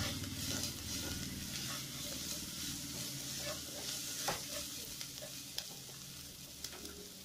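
Onions, garlic and green chillies sizzling in oil in a nonstick pot while a spatula stirs and scrapes them, with a few sharp taps of the spatula on the pan near the end.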